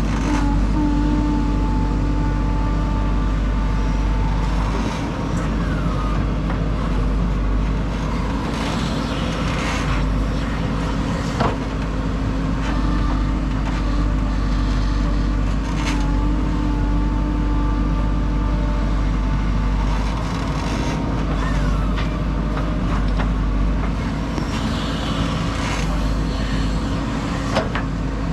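JCB 3DX backhoe loader's diesel engine running steadily while working soil, with a whine that comes and goes and two sharp clanks, one near the middle and one near the end.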